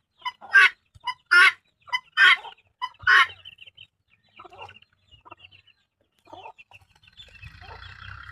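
Domestic chicken calling: four loud two-part calls, a short note then a louder one, about once a second, followed by fainter clucks. Near the end a steady hum builds up.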